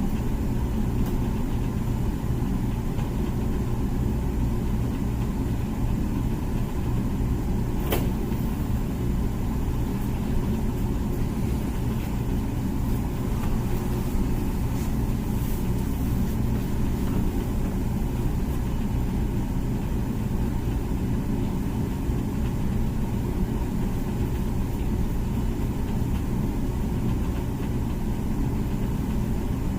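Comfee dishwasher running its wash cycle: a steady low hum from the wash pump motor. A single sharp click about eight seconds in.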